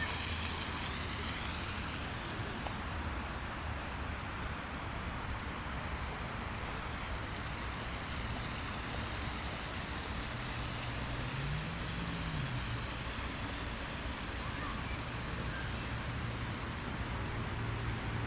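Steady outdoor city ambience: a continuous rushing noise with the low hum of road traffic. An engine rises briefly in pitch and falls again about two-thirds of the way through.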